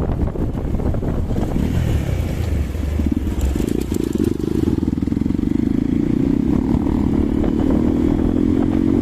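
Hero Xpulse 200 single-cylinder motorcycle engine running while riding, with wind buffeting the microphone. About three seconds in the exhaust note comes up clearly and then climbs slowly in pitch as the bike accelerates.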